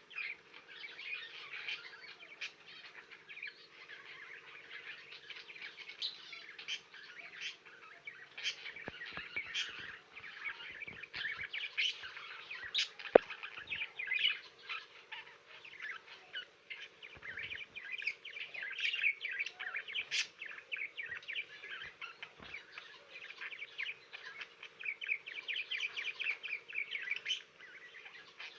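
Budgerigars chattering and warbling continuously, with frequent sharp chirps, over a faint steady hum.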